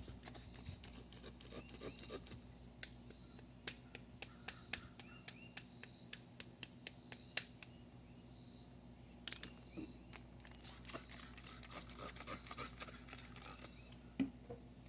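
Scraping and scratching at the underside of a lawn mower deck, in short repeated strokes with many small clicks and ticks.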